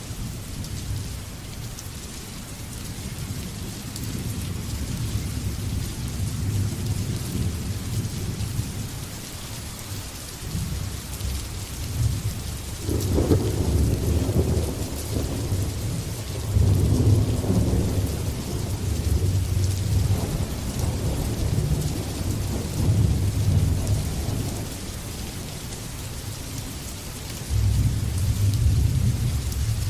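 Steady rainfall hissing, with thunder rolling in long low rumbles again and again, loudest about halfway through and swelling once more near the end.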